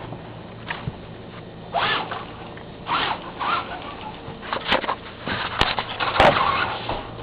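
RC truck whirring in short, irregular bursts, with a few sharp clicks near the end.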